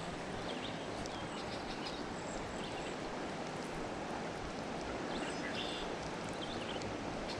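Steady rush of creek water, with a few faint, short, high bird chirps over it.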